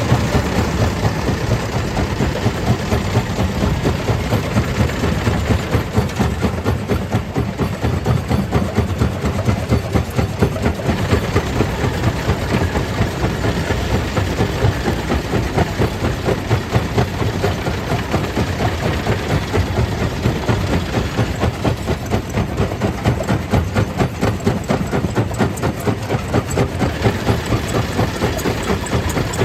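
Stone crusher machine running steadily, with a fast, even pulsing that goes on without a break.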